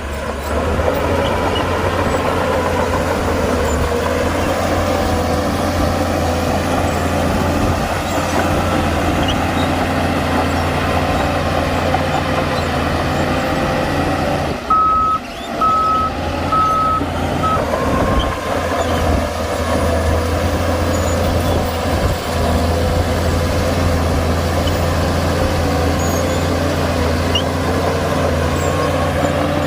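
Heavy earthmoving machine's diesel engine running steadily. A reversing alarm beeps four times about halfway through and starts again at the end.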